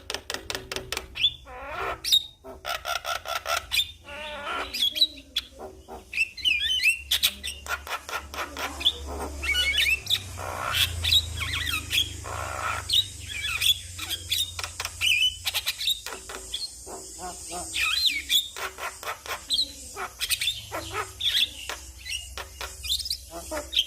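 Javan myna (jalak kebo) singing in full chatty voice, a fast, nearly unbroken mix of clicks, short whistles, chattering and harsh squawks.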